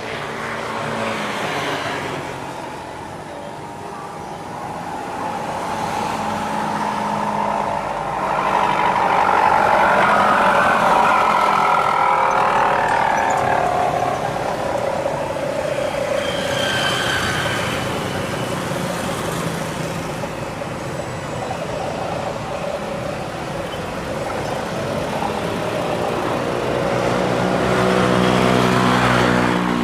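Airbus A320-214's CFM56-5B jet engines at takeoff thrust, a steady roar that swells to its loudest about a third of the way in, eases, then builds again near the end.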